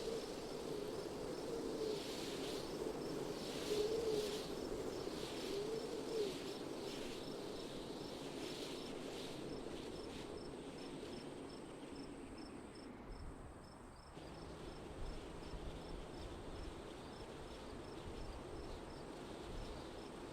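Wind ambience with a cricket chirping steadily, about two chirps a second. About fourteen seconds in the wind changes, dipping briefly and then carrying a low rumble.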